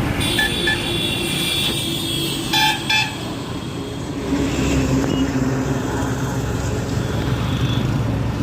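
Heavy vehicle engines running on a road, with two short horn blasts close together about two and a half seconds in; after them an engine note rises and holds.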